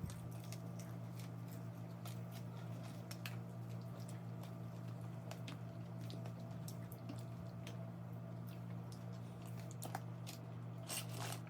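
A person chewing a mouthful of food up close: wet squelching with small crunches and mouth clicks, over a steady low hum.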